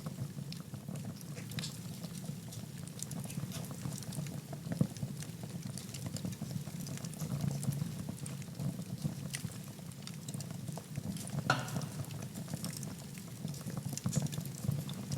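Wood fire burning in a fireplace: a steady low rumble of the flames with scattered crackles and small pops, and one sharper, louder pop about three quarters of the way through.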